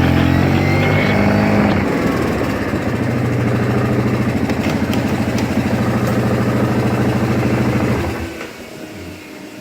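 Quad (ATV) engine running steadily, its pitch rising briefly in the first couple of seconds, then stopping about eight seconds in.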